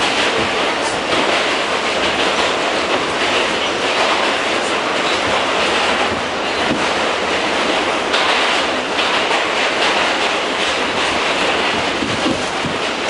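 R68 subway train running along the track: a steady, loud noise of wheels on rails, with scattered clicks from the track.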